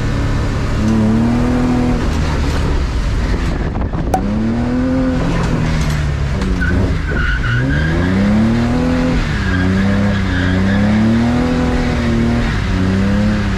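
BMW E36 328is straight-six engine pulling through the gears, heard from inside its windowless cabin. Its pitch climbs and drops several times as it accelerates and shifts.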